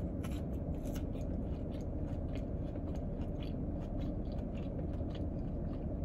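Someone chewing a mouthful of fries close to the microphone: a string of short, irregular mouth clicks over a steady low hum.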